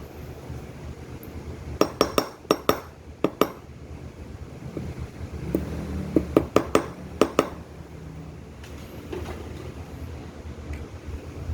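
Two rapid runs of sharp metallic clinks, about seven strikes each, a few seconds apart, over a steady low hum: metal parts or tools knocking together.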